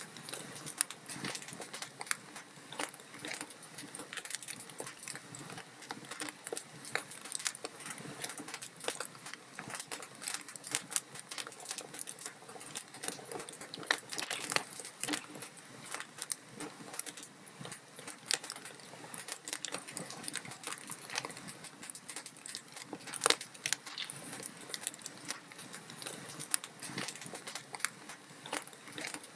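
Log fire crackling in a fireplace: a dense, irregular run of small pops and snaps over a soft hiss, with a few sharper snaps standing out.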